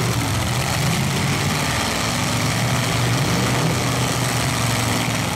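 Demolition-derby truck engines running steadily in a low, even drone over a constant background hiss.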